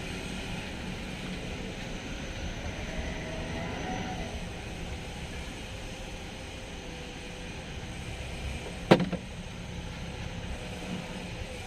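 Steady low background rumble, with one sharp knock about nine seconds in.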